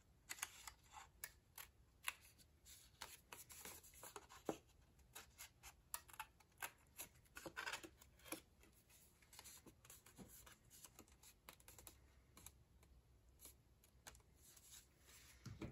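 Paper being trimmed: a quiet, irregular string of small snips and clicks.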